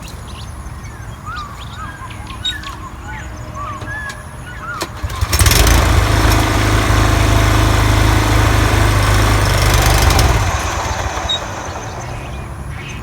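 Toro TimeMaster 30-inch walk-behind mower running on test, with new deck spindle bearings and correctly tensioned deck belts. About five seconds in it gets much louder for about five seconds, then drops back to a steady lower run.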